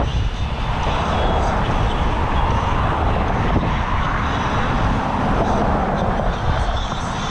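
Wind rushing over a GoPro's microphone on a moving bicycle: a steady, loud rumbling noise with a broad hiss above it, no pitch or rhythm.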